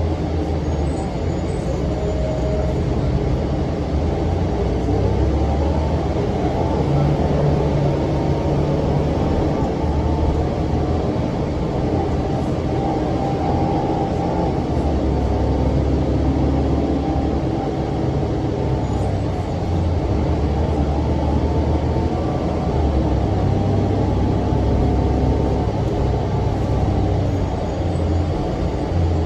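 Cummins ISM diesel engine of a 2006 NABI 40-foot low-floor bus running with its engine cooling fan on: a loud, steady drone with a few pitch lines that shift as the engine speed changes.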